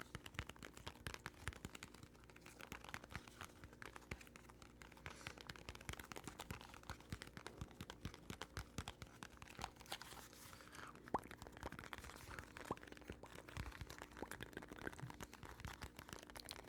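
Quiet close-microphone ASMR trigger sounds: a dense, irregular run of small soft clicks and crackles, with a few sharper ticks past the middle.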